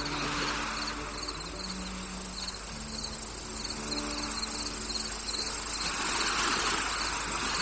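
Crickets chirping, short pulsed chirps about twice a second over a steady high-pitched insect trill. Under them sit soft held music tones and a gentle rushing swell that grows louder near the end.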